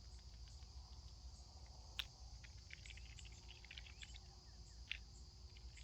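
Faint outdoor ambience: a steady high-pitched insect drone, with scattered light ticks and two sharper clicks about two and five seconds in.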